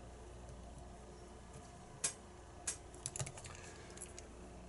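Small metal tools and lock parts being handled: a scattered run of light clicks and taps starting about two seconds in, several close together near the middle.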